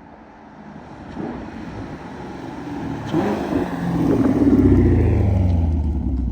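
Chevrolet Camaro SS 1LE's 6.2-litre V8 running through a Borla ATAK axle-back exhaust, growing louder over several seconds as the car comes on, loudest about two-thirds in with a deep rumble, then easing slightly.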